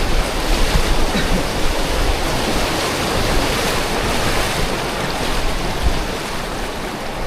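Rushing river water close to the microphone as tubes ride down the rapids, a steady loud wash with an uneven low rumble underneath.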